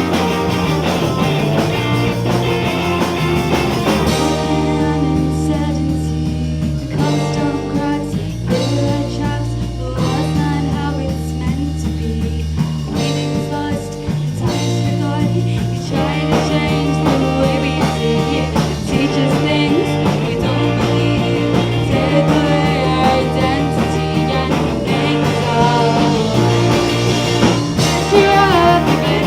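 A rock band playing live with guitar, and a female lead voice singing over it.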